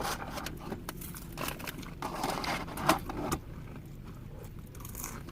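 Rustling of a takeout box of fries and the small clicks and taps of eating from it, with a sharper tap about three seconds in.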